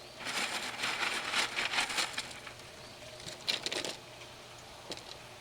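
Lava rock being poured and shifted in a grow bed, a clatter of many small stones for about two seconds, then a shorter burst and a few single clicks.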